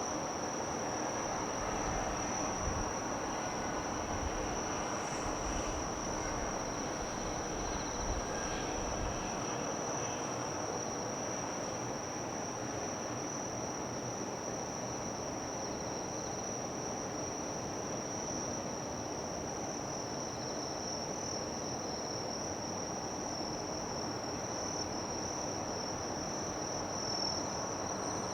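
Insects, crickets or similar, chirring in one continuous high steady trill over a steady wash of harbour background noise, with a low rumble that drops away about nine seconds in.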